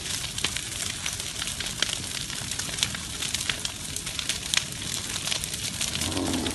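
Wildfire burning through vegetation: steady crackling with many sharp pops over a continuous hiss.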